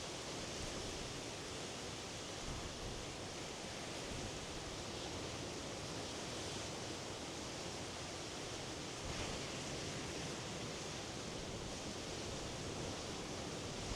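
Waves of the Norwegian Sea as a steady, even rush of noise, swelling slightly now and then.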